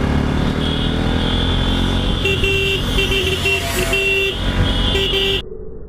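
Motorcycle riding with a steady engine and wind rumble, and a vehicle horn sounding in a run of short toots from about two seconds in, stopping shortly before the end.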